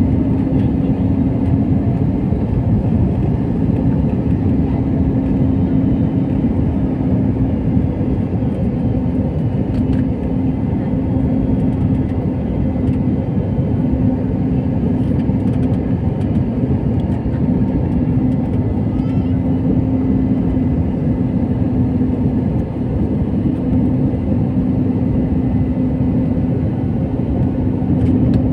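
Steady cabin drone of an airliner in flight: jet engine and airflow noise heard inside the cabin, a constant low rushing with a steady hum.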